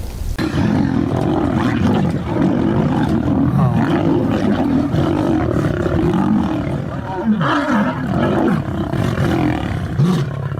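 A large animal roaring loudly and continuously, with shorter rising and falling calls or voices over it in the second half.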